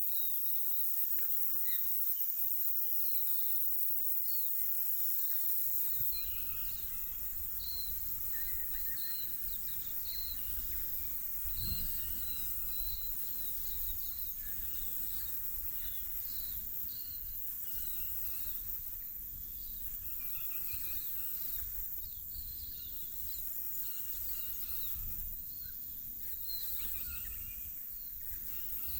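Silvereyes (tauhou) giving many short, high, thin calls over a steady high-pitched insect hiss. A low rumble comes in about six seconds in.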